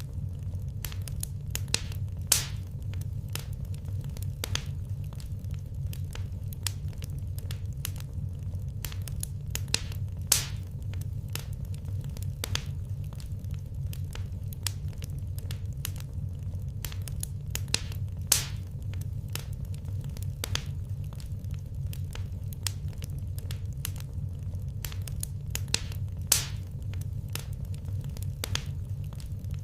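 Wood fire crackling in a fireplace: frequent sharp pops and snaps over a steady low rumble, with a few louder pops about every eight seconds.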